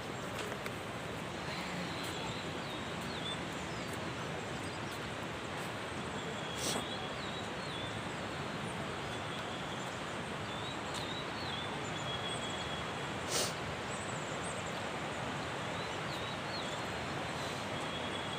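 Steady rush of river water, with small birds chirping and whistling over it throughout. Two brief knocks, about seven and thirteen seconds in.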